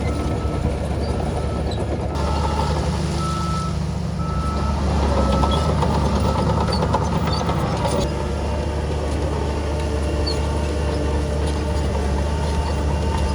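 Heavy diesel engines of earthmoving machinery running steadily, with a reversing alarm beeping about once a second through the first half.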